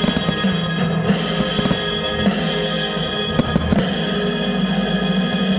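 Fireworks going off, with several sharp bangs and crackles, over loud music holding sustained chords.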